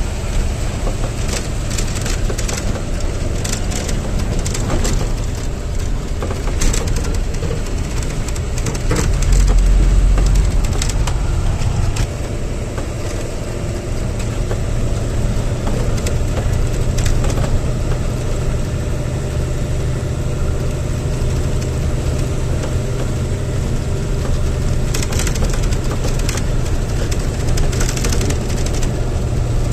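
Truck engine running steadily at a low speed, with a louder low surge about ten seconds in and scattered clicks and knocks over it.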